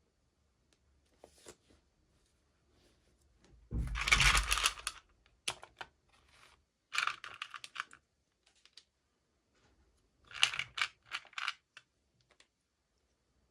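Toy packaging being opened by hand: bursts of crinkling, rustling and tearing with small clicks, the loudest burst about four seconds in and two more near seven and ten seconds.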